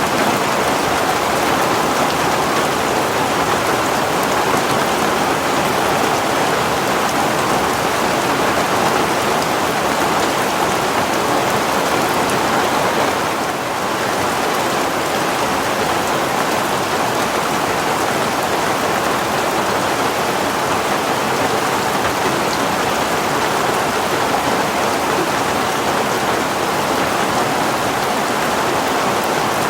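Heavy rain falling in a steady downpour, with a brief slight lull about halfway through.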